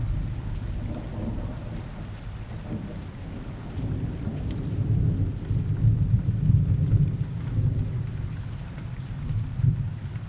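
Steady rain with low rolling thunder; the rumble builds and swells in the middle, then eases toward the end.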